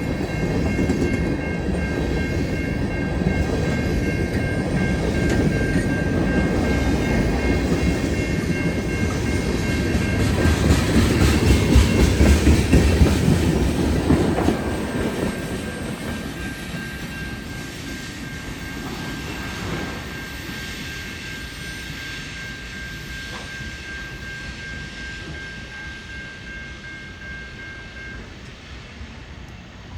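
A train passes over a level crossing, its wheels clattering on the rails, loudest about twelve seconds in and then fading away. A crossing warning bell rings steadily throughout and stops near the end.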